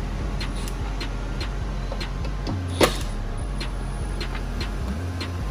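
Scattered light clicks and knocks of hand tools working on the watercraft's parts, with one sharper knock about three seconds in, over a steady low hum.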